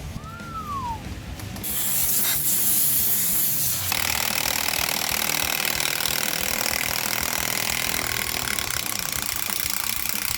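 Welding arc crackling and hissing steadily as the differential centre is welded solid to lock the rear diff, starting about a second and a half in. It is preceded by a short falling whistle-like tone.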